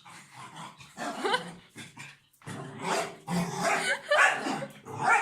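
Overexcited puppy growling and barking in a run of short bursts.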